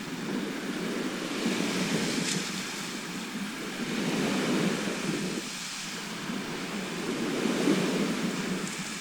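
Sea surf washing ashore: a steady rushing of waves that swells and falls back about every three seconds.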